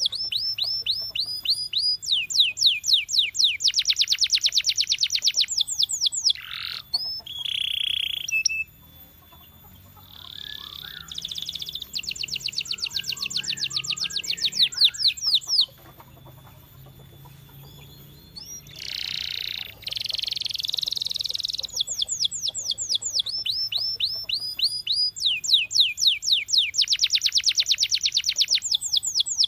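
Canary singing: fast trills of rapidly repeated notes, phrase after phrase, with two short lulls, one about a third of the way in and one just past the middle.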